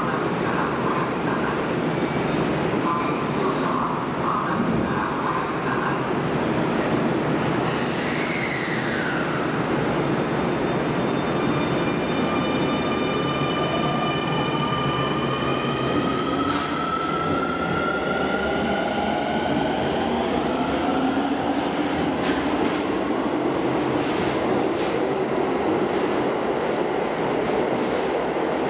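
Electric commuter train running through an underground station. Wheels rumble on the rails throughout. About eight seconds in an electric motor whine falls in pitch, then a set of whines climbs and holds. In the second half come quick clicks of wheels over rail joints.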